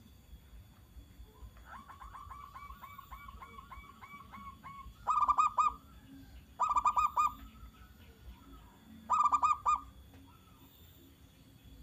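Zebra dove (perkutut) cooing: a soft run of about a dozen quick notes, then three loud, short rolling phrases a second or two apart.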